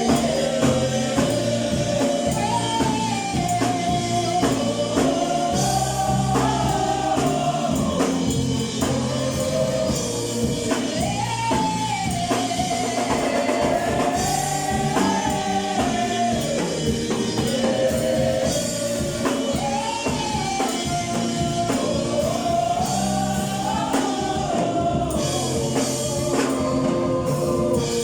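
A gospel choir singing with band accompaniment, a melody line rising and falling over steady bass and drums.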